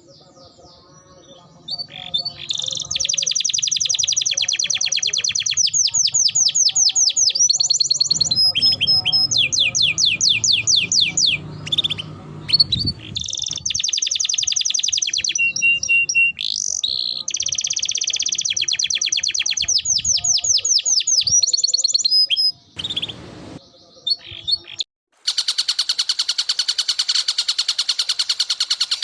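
Recorded songbird song: fast high trills and chattering runs of repeated notes with short pauses between phrases, changing about 25 seconds in to a continuous, very rapid buzzing trill.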